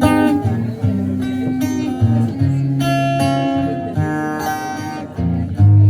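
Live guitar playing the song's instrumental intro: plucked and strummed notes over a sustained low line, with a deeper, louder note coming in near the end.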